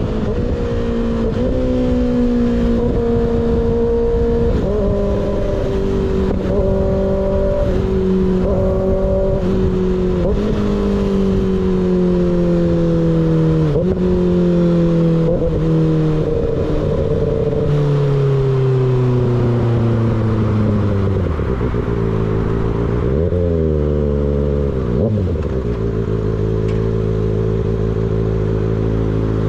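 Kawasaki ZX-6R inline-four through an unbaffled M4 GP19 slip-on exhaust, under way. The engine note steps up and down between gears, then falls steadily for about ten seconds as the bike slows. A few quick rev blips come with downshifts about three quarters through, and it settles to a steady lower note near the end.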